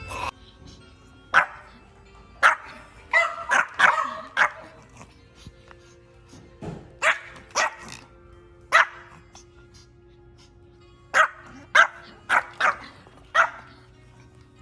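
Dog barking, sharp single barks in bursts of two to five with short pauses between, over background music.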